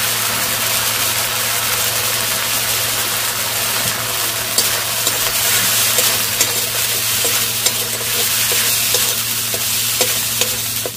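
Spice masala of tomato, ginger-chilli paste and turmeric sizzling as it fries in a metal kadai, stirred and scraped with a metal spatula, with a few sharp clicks of the spatula against the pan in the second half.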